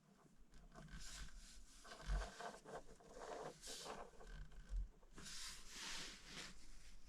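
Close-up rustling and scraping of things being handled, in several bursts, with two soft thumps about two and five seconds in.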